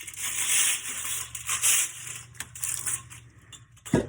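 Thin aluminum fins of an HVAC A-coil crunching and scraping as a tool is pulled along the coil to cut through them, in uneven grating strokes. A single sharp thump comes near the end.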